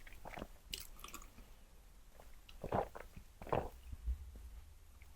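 Close-miked chewing of spicy luosifen rice noodles: scattered soft, wet mouth sounds, with two louder ones in the middle, a little under a second apart.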